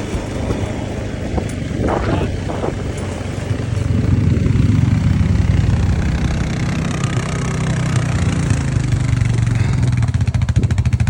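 Small vehicle engine running steadily, growing louder about four seconds in.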